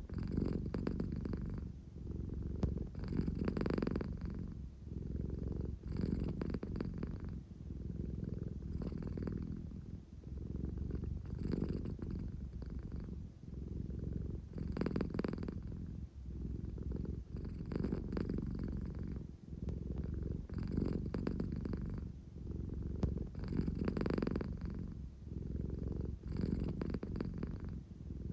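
An American Shorthair cat purring close up, a steady low rumble that swells and eases with each breath, about every three seconds. This is the purr she makes when she is sleepy and wants affection.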